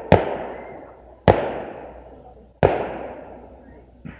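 Aerial firework shells bursting: three loud bangs about a second and a quarter apart, each trailing off in a rolling echo.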